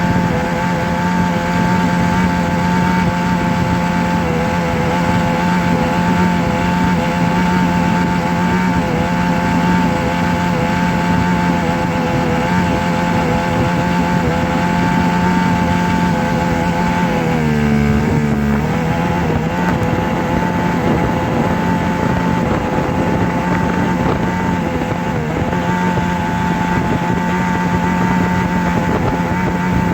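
A steady motor drone with a constant hum and a noisy rush, whose pitch wavers briefly about two-thirds of the way through before settling back.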